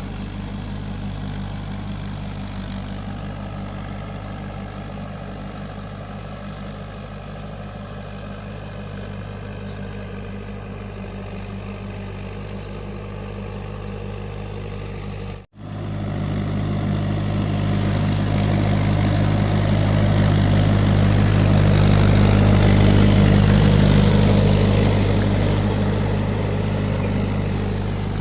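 Mahindra tractor's diesel engine running steadily. About halfway through, the sound cuts out for an instant, then comes back louder, grows to a peak and eases off a little near the end.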